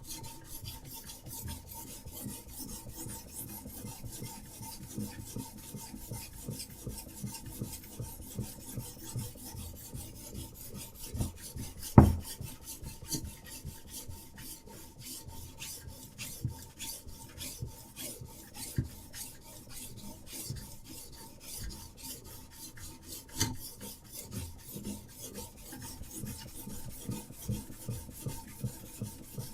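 Diamond sharpening stone on a Hapstone RS guided sharpener scraping along a steel knife edge in rapid, even back-and-forth strokes, a steady rasping grind. A single sharp knock stands out about twelve seconds in, with a few lighter knocks later.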